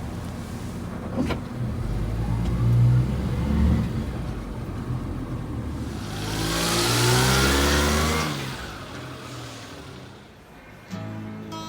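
Suzuki Carry kei truck's small three-cylinder engine running, then accelerating about six seconds in with rising pitch and a surge of road and wind noise, before fading out. Guitar music comes in near the end.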